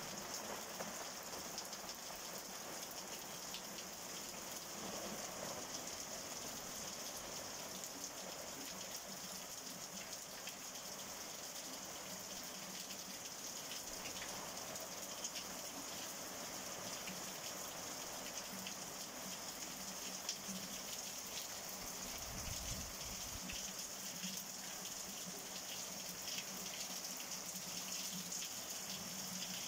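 Heavy storm rain falling steadily on the paving and clay-tiled roofs of a courtyard, a continuous even hiss of rain with water gushing off the roofs. A brief low rumble comes about three-quarters of the way through.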